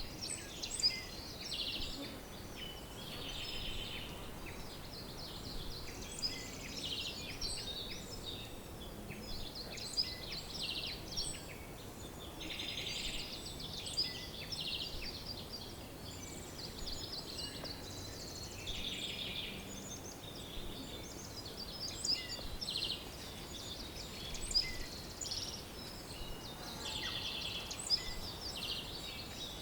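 Several songbirds singing at once: a busy mix of short chirps and rapid trills that overlap continuously, over a faint steady background hiss.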